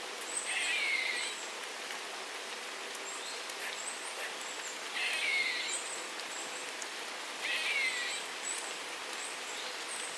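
Steady rain falling, with a bird giving a short call three times, several seconds apart. Thin, high notes repeat in between.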